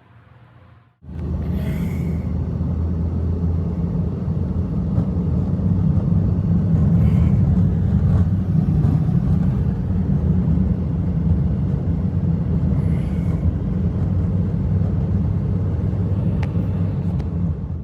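Strong blizzard wind making a steady, loud low rumble, starting abruptly about a second in, with a few faint higher rustles or creaks above it.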